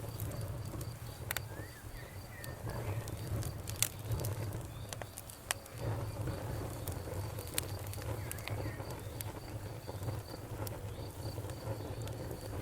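Wood fire in a fireplace: a steady low rumble of burning with scattered sharp crackles and pops, two louder snaps about four and five and a half seconds in.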